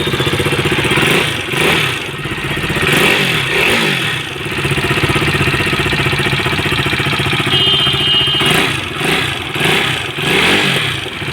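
KTM RC 390's single-cylinder engine running and being blipped up and down a few times, with a ticking valvetrain noise: the mechanic traces it to a worn rocker arm and cam lobe caused by oversized tappet shims.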